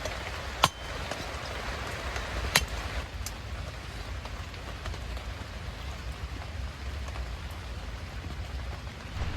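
Heavy rain falling steadily, with a low rumble underneath and two sharp taps, one about half a second in and one about two and a half seconds in.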